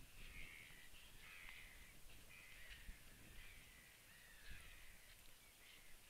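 Faint bird calls, short and repeated about once or twice a second, some falling in pitch, over a low rumble.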